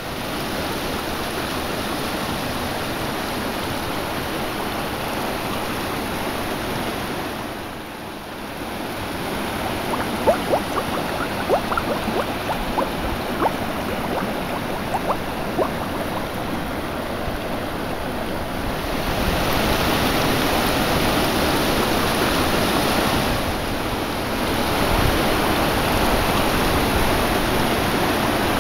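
Steady rushing of water, like a river in spate or surf. A scatter of short sharp pops comes about a third of the way in, and the rushing grows louder for the last third.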